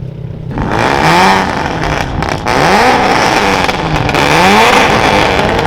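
Car engine revved hard several times through a loud exhaust, starting about half a second in, its pitch climbing and dropping with each rev, with a few sharp pops in between.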